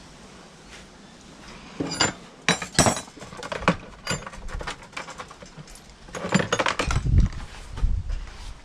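Metal parts and hand tools clinking and clattering as they are handled, in two spells of sharp clinks, with a few duller thumps near the end.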